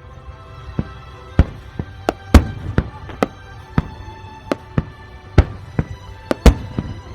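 Fireworks bursting in quick, irregular succession, about fifteen sharp bangs, over music playing. The loudest bangs come a couple of seconds in and near the end.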